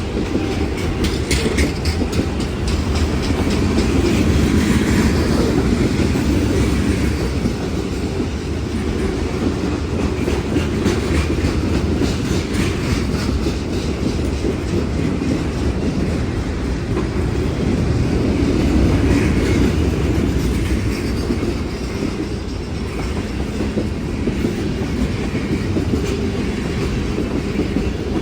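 A train rolling past, its wheels rumbling steadily on the rails, with spells of rapid clicking from the wheels over the rail joints.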